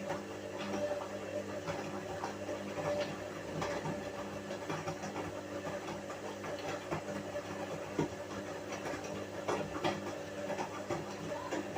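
Whirlpool washing machine running: a steady motor hum with irregular clicks and knocks throughout.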